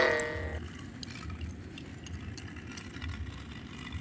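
A ringing, bell-like tone with several pitches fades out in the first half-second. After it come a faint low rumble and small plastic clicks as AA batteries are fitted into a toy train's battery chassis.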